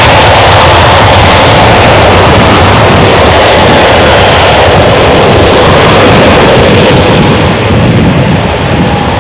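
Airbus A320neo turbofan engines running very loud at high power, a dense steady rush with a faint whine. The highest pitches fade near the end as the aircraft moves away.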